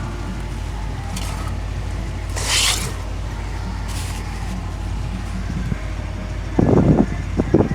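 Dodge 5.7 Hemi V8 engine idling steadily, with a short hiss about two and a half seconds in. Several loud, short bursts come near the end.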